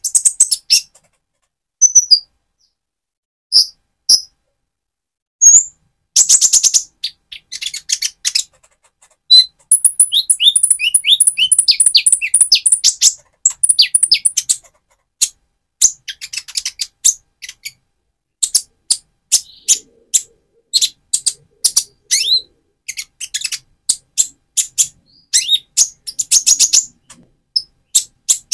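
Purple-throated sunbird (konin), a young male in mottled plumage, singing in quick bursts of sharp, high chirps and twitters. About ten seconds in it breaks into a dense, rapid twittering run lasting several seconds.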